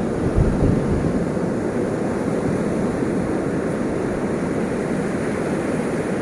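Ocean surf: waves breaking in a steady, low rumble, with a slightly louder surge about half a second in.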